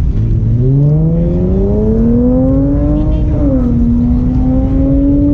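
A car engine accelerating: its pitch climbs steadily for about three seconds, drops at a gear change, then climbs again, over a steady low rumble of traffic.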